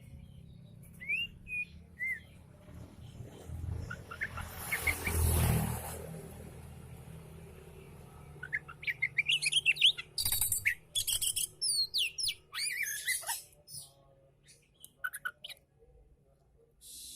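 Oriental magpie-robin singing: scattered whistled chirps, then a fast run of varied, sweeping notes from about eight to thirteen seconds in. A brief rush of noise swells and fades around five seconds in.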